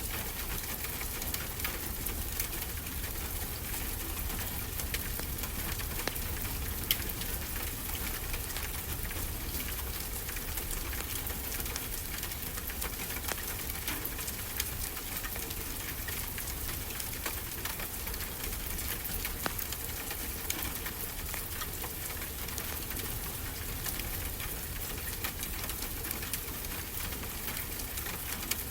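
Wood fire crackling with frequent small pops, one sharper pop about seven seconds in, over a steady hiss of ocean surf.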